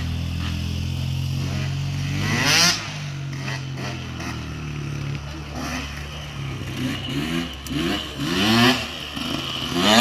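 Small off-road engine idling steadily, then revving up sharply about two and a half seconds in. Near the end it revs up several times in quick succession, each rev rising in pitch.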